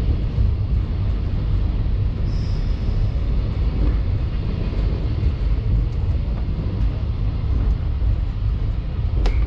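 Running noise of a JNR 113 series electric train heard from inside the front car: a steady low rumble of wheels on rail and running gear, with a single sharp click near the end.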